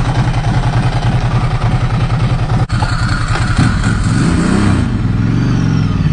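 Motorcycle engine running, then revving up with rising pitch about four seconds in as the bike pulls away.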